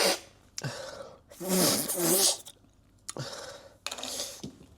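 A man's heavy, breathy exhales and a voiced groan as he suffers the burn of very hot spicy noodles. The strongest breath comes about a second and a half in, followed by a few small clicks and a softer breath near the end.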